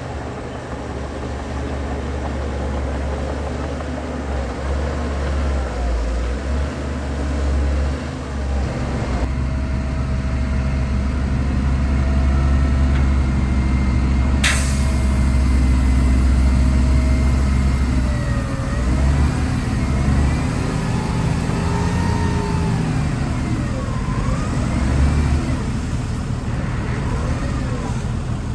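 Heavy diesel earthmoving machinery running under load, a deep steady engine drone. A sharp click comes about halfway through, and wavering high squeals rise and fall over the second half.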